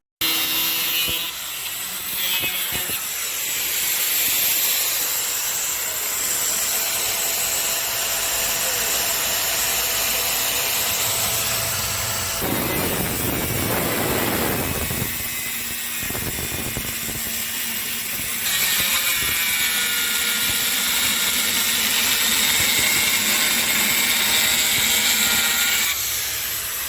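A workshop power tool running steadily with a hissing noise, its sound shifting a few times, with a rougher, lower stretch about halfway through.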